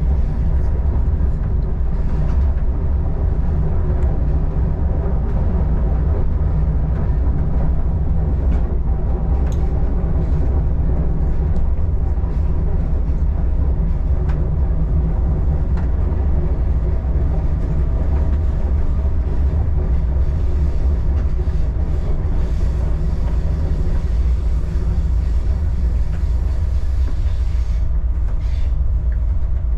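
Adelaide Metro diesel railcar running on the Belair line, a steady low rumble with an even engine drone and a few light clicks from the track.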